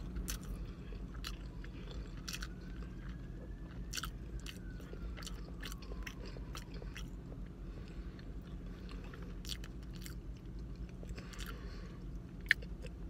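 Close-miked chewing of a mouthful of burger: soft wet mouth smacks and clicks scattered irregularly, over a low steady hum.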